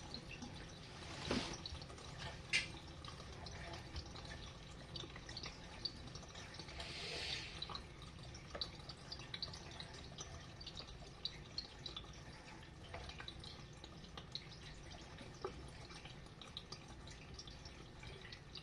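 Faint water dripping and trickling as an RV washing machine drains slowly, with scattered small drip ticks and a couple of sharper clicks in the first few seconds.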